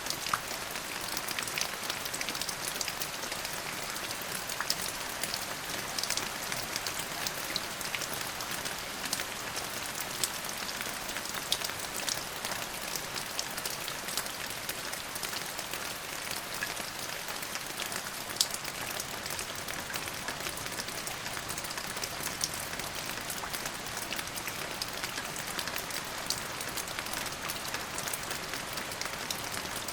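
Steady rain falling, a dense even hiss with many distinct drop ticks.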